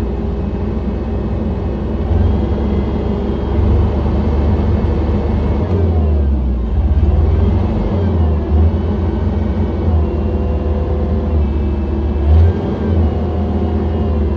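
John Deere 317 skid steer loader's engine running steadily with a heavy low hum, its speed rising and falling a little as the loader works.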